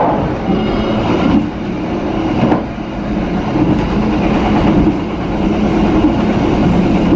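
Jayakarta Premium passenger train running at speed, heard from aboard: a loud, steady rumble of wheels and coach, with a few sharp clicks from the wheels over rail joints.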